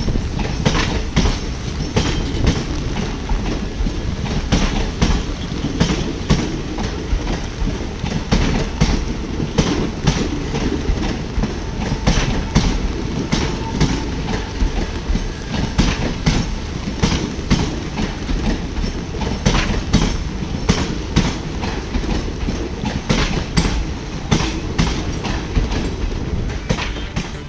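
Express train coaches rolling past, their wheels clattering over rail joints in a steady, irregular stream of clicks over a rumble.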